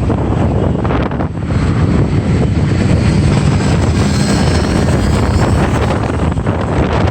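Moving motorbike's engine and road noise, with wind buffeting the microphone. A faint high whine comes in around the middle.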